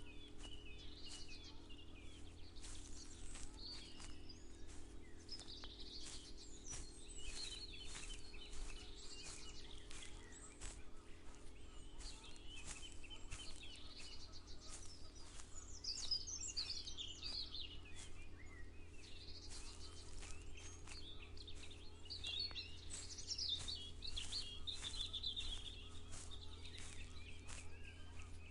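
Many birds chirping and singing over one another, with soft regular footsteps of someone walking and a steady low hum underneath.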